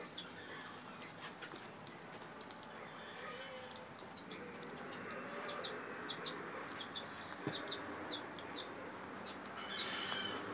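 Birds chirping: short high chirps, many in quick pairs, repeating about once or twice a second over a faint background. A brief louder noise comes near the end.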